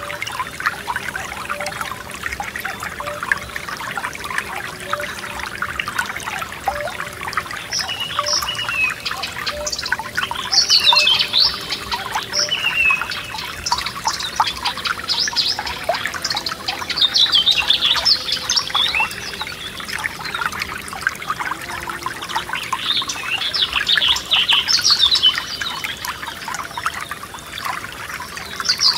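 Forest stream trickling and gurgling, with songbirds singing short chirping phrases over it every few seconds.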